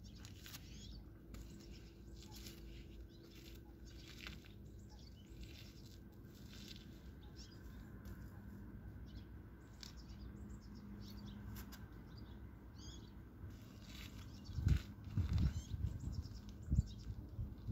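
Small birds chirping now and then over a steady low outdoor rumble. Several loud, low thumps come in the last few seconds.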